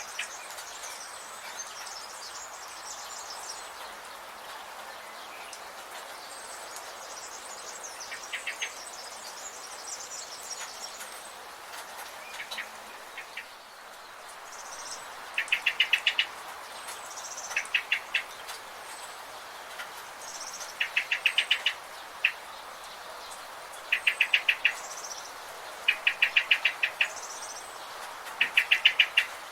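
Forest birds calling: a short, rapid pulsed trill repeated about every two seconds from about halfway on, over faint high chirps and a steady background hiss.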